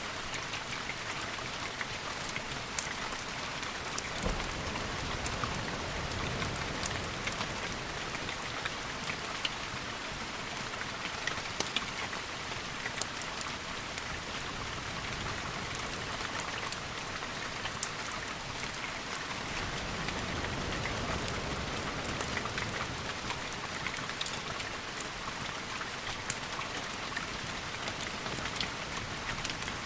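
Steady rain with frequent sharp drop ticks, and a low rumble that swells twice, about four seconds in and again around twenty seconds in.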